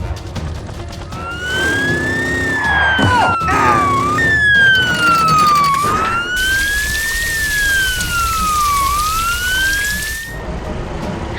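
A wailing siren, its pitch rising and falling slowly about three times, starting about a second in and stopping near the end. A steady hiss joins it about six seconds in.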